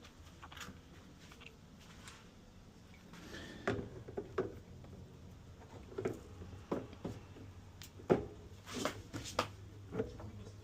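Scattered knocks and clicks at uneven intervals, starting a few seconds in, with the loudest a little past eight seconds in.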